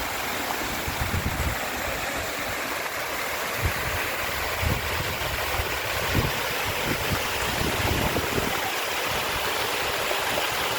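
Waterfall rushing with a steady, even roar of falling water, with scattered low thumps under it.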